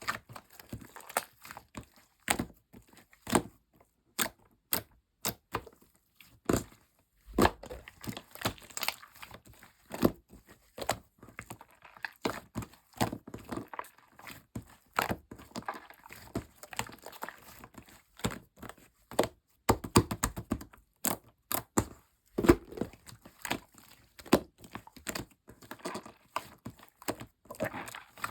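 Slime being squeezed, pressed and stretched by hand, giving irregular sharp sticky pops and clicks with a few heavier thuds and soft crackling in between.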